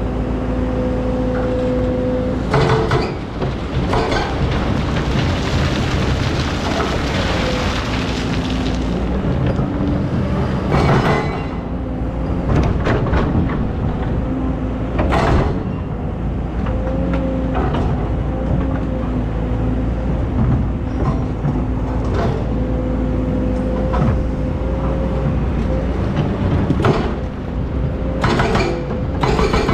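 Excavator engine running with a steady whine that shifts in pitch now and then. It is broken by several sharp knocks and clanks, with a stretch of rushing hiss a few seconds in.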